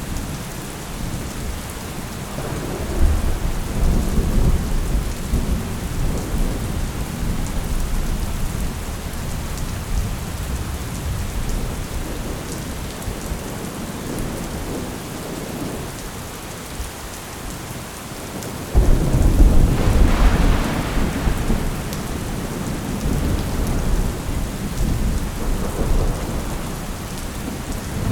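Steady heavy rain with thunder: a rumble rolls in a few seconds in, and a louder, sudden thunderclap breaks about two-thirds of the way through, then rumbles away.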